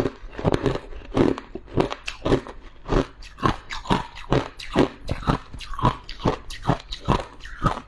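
Freezer frost being chewed, with a steady run of crisp crunches about three times a second.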